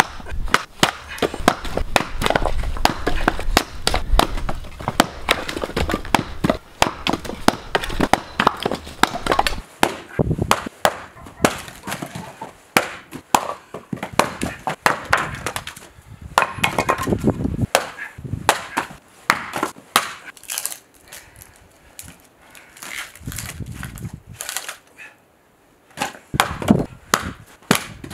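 Wood being chopped and split with an axe: many sharp chops and cracks in quick, irregular succession. They thin out in the second half, with a short lull near the end.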